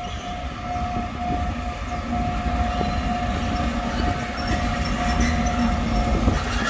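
Huwei Sugar Factory's 762 mm narrow-gauge sugarcane train approaching. Its low rumble grows steadily louder under a steady high tone.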